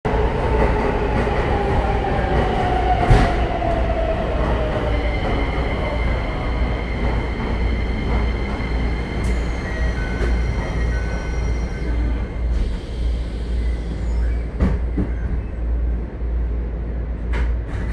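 An electric train braking to a stop at the next platform, its motor whine falling steadily in pitch over the first few seconds, heard through the open doors of a standing commuter train over a constant low hum. A few sharp knocks follow, one of them late on as the car's doors close.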